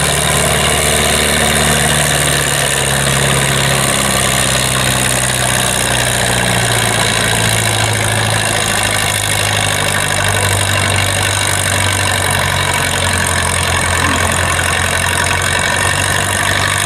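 Antique tractor engine running steadily, its pitch slowly sinking over the first half and then holding level.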